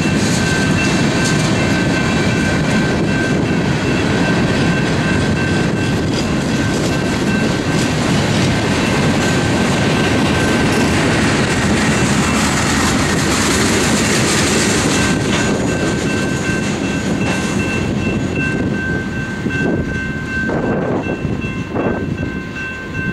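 Freight train of tank cars and covered hoppers rolling past, a steady rumble of wheels on rail that thins out about twenty seconds in as the last car clears. A steady high ringing, from the grade-crossing bell, runs under it and keeps going after the train has passed.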